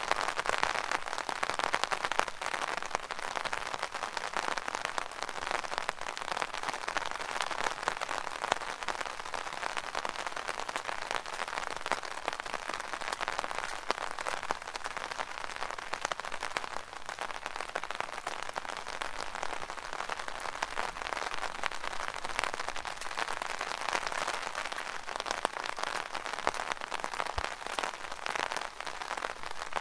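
Rain falling on an umbrella: a steady, dense patter of many small drops hitting the canopy, even throughout.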